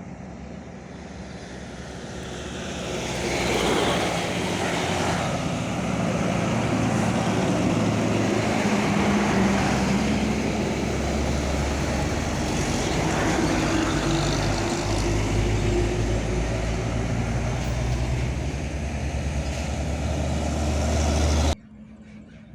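Fuel tanker truck's diesel engine running at speed with tyre and road noise. It grows louder over the first few seconds, holds steady, then cuts off suddenly near the end.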